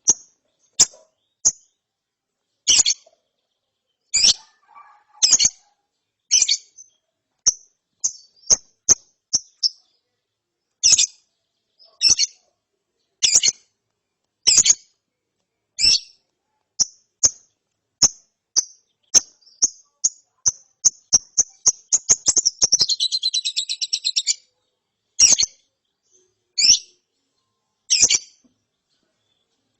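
Young lovebird calling: sharp, high single chirps at uneven spacing that speed up into a quick run about twenty seconds in, break into a short buzzy chattering trill for about two seconds, then go back to single chirps. The trill is the beginning of the 'ngeriwik' chatter that keepers train young lovebirds toward.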